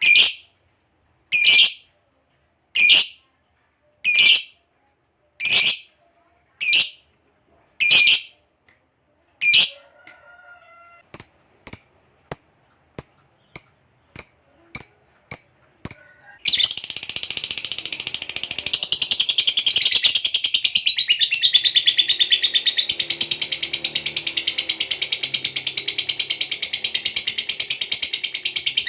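Lovebird giving sharp single high calls about every second and a half, then quicker short chips. About 16 seconds in it breaks into a long, unbroken, rapid chattering trill, the 'ngekek panjang' that keepers prize.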